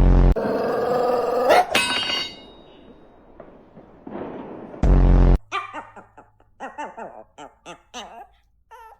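A dog whining and yipping: one long wavering whine in the first couple of seconds, then a run of short yips and whimpers in the second half. Two heavy low bumps, at the start and about five seconds in.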